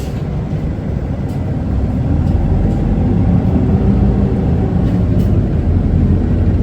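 Isuzu Erga city bus's diesel engine and drivetrain heard from inside the cabin as the bus pulls away from a stop: a low rumble that grows louder about two seconds in as it picks up speed, with a few faint clicks.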